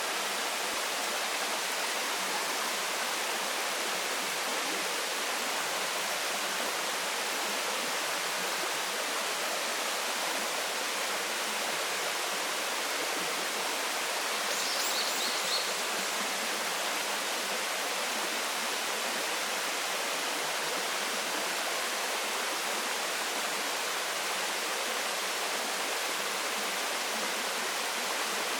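Waterfall pouring steadily: a continuous, even rush of falling water. About halfway through, a brief high chirping cuts in over it.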